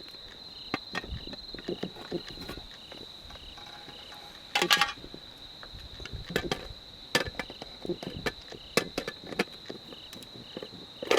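Insects trilling: one steady high trill, and a second insect chirping about two to three times a second near the start and again near the end. Scattered sharp pops and clicks from the wood campfire, with a louder short rattle about four and a half seconds in.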